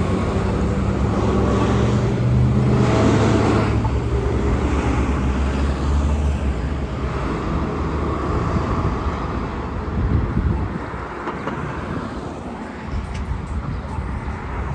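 A heavy diesel vehicle, likely a city bus, runs close by with a strong low engine hum for the first few seconds, then passes. Steady road-traffic noise follows, easing off slightly near the end.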